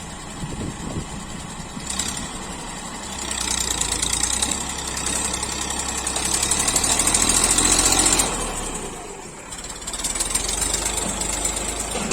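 Massey Ferguson tractor's diesel engine running while pulling a loaded trolley. It builds up from about three seconds in to its loudest near eight seconds, eases off briefly about a second later, then picks up again.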